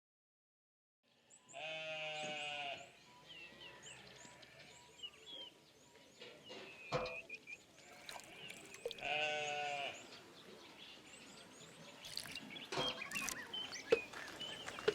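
A goat bleating twice, each call over a second long with a wavering pitch: once about two seconds in and again near the middle. Many short high chirps sound throughout, and scattered knocks come in near the end.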